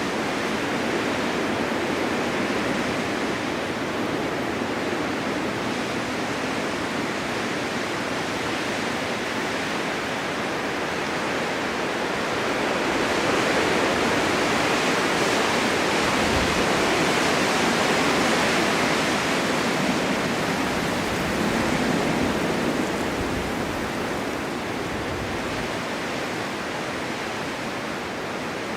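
Blizzard wind, a steady rushing of wind and blown snow. It swells louder for several seconds about halfway through, then eases off toward the end.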